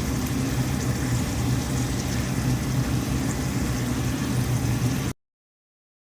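A motor running steadily with a low hum, cut off abruptly about five seconds in.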